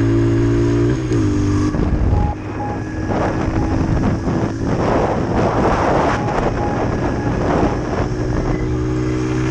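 Dirt bike engine running, holding a steady note at first, then about two seconds in giving way to an uneven, rough rush of engine noise.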